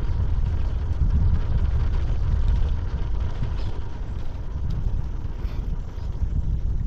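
Wind rumbling on the microphone of a rider moving downhill: a steady low rumble with no engine note.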